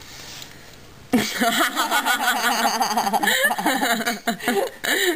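People laughing, starting about a second in after a brief quiet, with rapid wavering bursts of voiced laughter.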